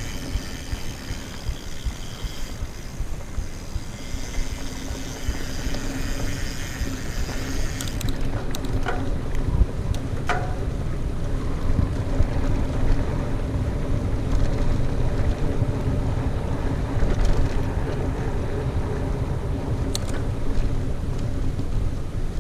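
Mountain bike riding fast along a trail: steady wind rush on the microphone and tyre rumble, with a couple of short knocks from bumps about nine and ten seconds in.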